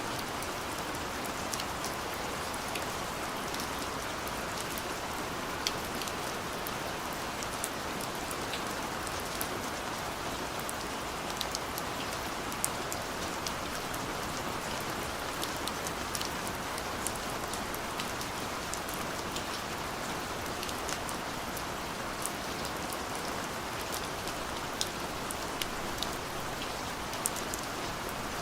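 Steady rainfall: an even hiss of rain with many small, scattered drop ticks landing on surfaces.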